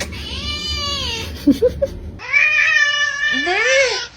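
A cat meowing: two long, drawn-out meows, the second one bending up and down in pitch near its end.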